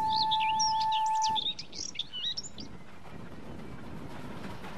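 Birds chirping in quick high rising and falling notes over a steady whistle tone that stops about a second and a half in; after that, a quieter even outdoor background.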